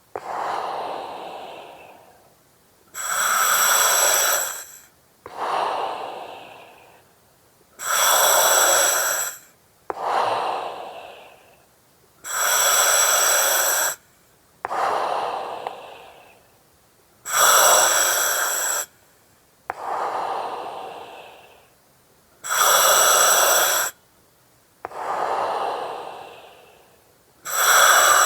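Slow, even breathing through an oxygen mask, about six breaths. Each breath is a sharp hiss of under two seconds that starts and stops abruptly, then a softer breath that fades away, repeating about every five seconds.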